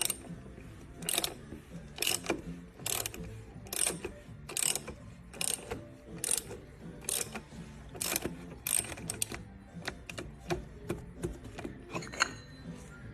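Sharp metallic ratcheting clicks, about one a second, quickening into a run of closer clicks near the end, over faint background music.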